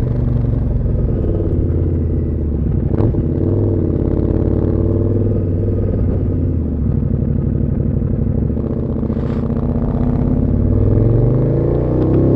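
KTM Super Duke 1290 R's V-twin engine running through an Austin Racing V3 150 mm exhaust. It holds a steady engine speed, then revs up near the end.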